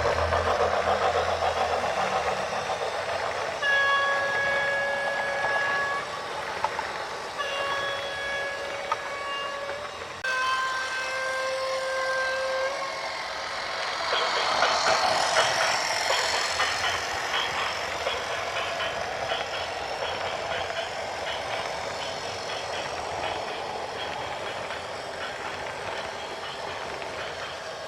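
A vehicle horn sounds three long blasts of about two seconds each, the last slightly lower in pitch, over steady vehicle noise.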